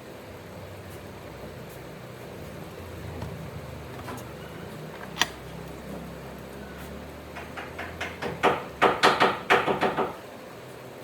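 A quick run of about a dozen sharp knocks, coming closer together, near the end, over a low rumble, with a single sharp click about halfway through.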